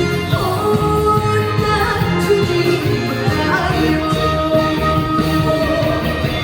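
A woman singing a trot song live over a backing track with a steady bass beat, her voice holding long notes.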